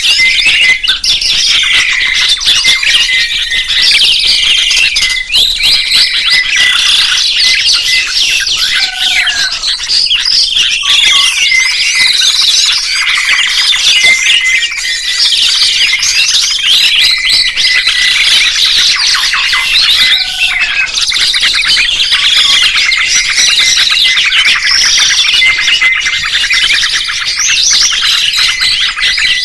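Songbirds chirping and twittering in a dense, unbroken stream of quick, high notes that overlap one another.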